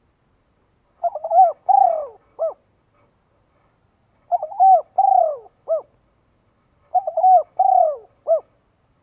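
A bird calling: three matching phrases of short notes, each with one longer falling note, repeated about three seconds apart.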